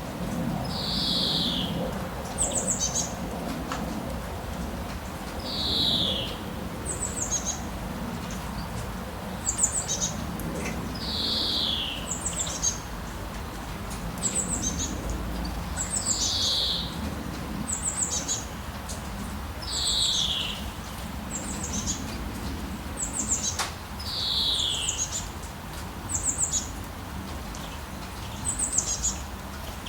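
Forest birds calling: one bird repeats a downward-sliding call about every four to five seconds, and short high chirps come between its calls. Under them runs a steady low background of forest ambience.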